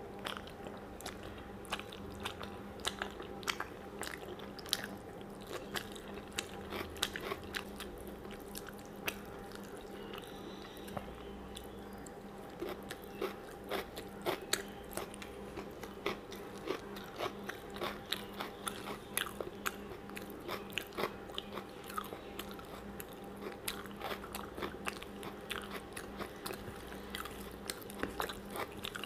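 Close-miked chewing of rice, dal and fried greens eaten by hand, with many short wet mouth smacks and clicks throughout. A faint steady hum runs underneath.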